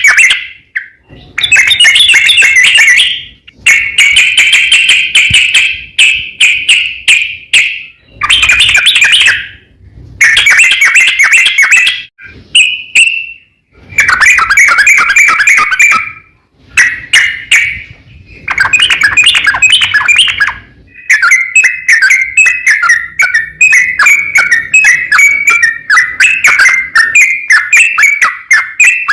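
Yellow-vented bulbul (trucukan) singing loud, bubbly phrases of one to three seconds each with short pauses between them; from about two-thirds of the way through, the song turns into a faster, unbroken run of chattering notes.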